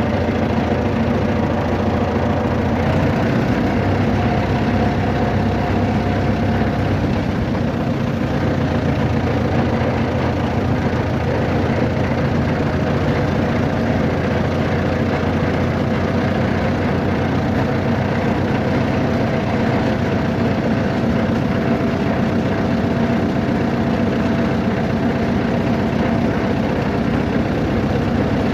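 A vehicle's engine running steadily, a continuous even rumble with faint tones that drift slightly in pitch.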